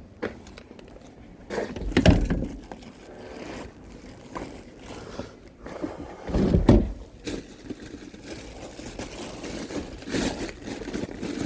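Irregular scraping and knocking of objects being handled and moved, with three louder thuds spread through the stretch.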